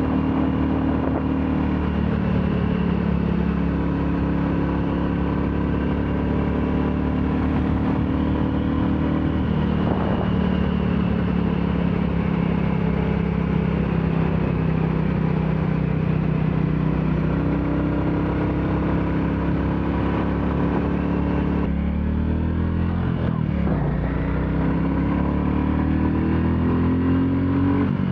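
Royal Enfield Classic 350's single-cylinder engine and exhaust running steadily at cruising speed, with changes in engine speed; it drops and climbs again about two-thirds of the way through.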